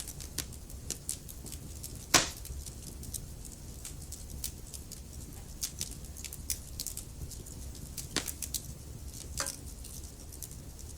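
Wood fire crackling in a fireplace: scattered small crackles and pops over a low steady rumble, with a louder pop about two seconds in and two more near the end.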